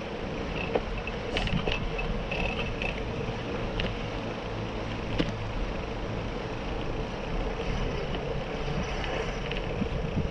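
Bicycle riding along: a steady even rush of tyres rolling and moving air.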